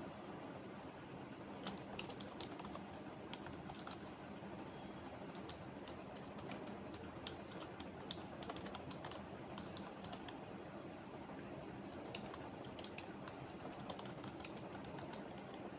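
Typing on a computer keyboard: irregular runs of keystroke clicks with brief pauses, over a steady low background hum.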